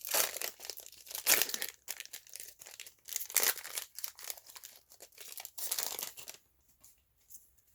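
Foil wrapper of a Pokémon booster pack crinkling and tearing as it is opened, in a run of rustling bursts that stops about six seconds in.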